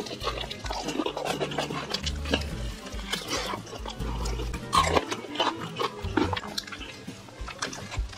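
Close-miked eating sounds: wet chewing, smacking and slurping as a man eats noodles and bites meat off grilled ribs. Background music with a steady low beat plays underneath.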